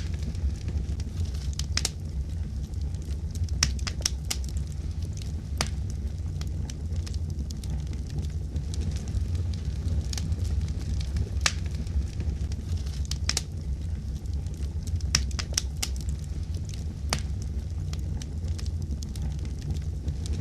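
Fireplace fire crackling: irregular sharp pops and snaps, some in quick clusters, over a steady low rumble of the flames.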